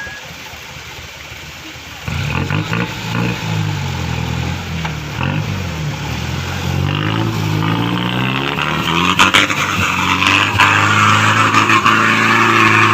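4x4 truck engine revving up and down hard under load, labouring in mud; it rises sharply about two seconds in. From about eight seconds in a loud hissing rush joins the engine, with scattered knocks.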